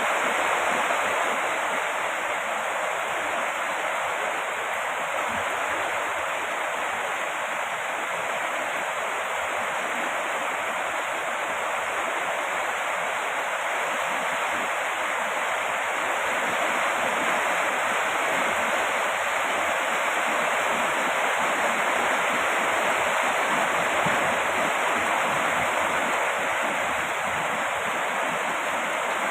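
Steady heavy rain: a dense, even hiss that holds at the same level throughout, with no separate drops or other events standing out.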